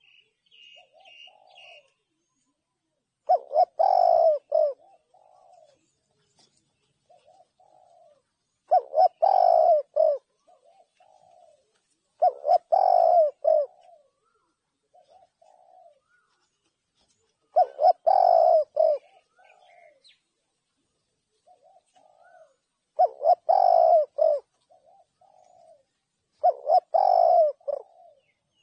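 Spotted dove cooing: six loud multi-note coo phrases, each trailed by a few softer notes, repeating every four to five seconds.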